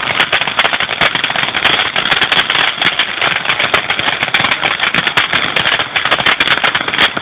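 Firework crackling: a dense, rapid string of sharp pops and cracks, many a second, keeping up throughout.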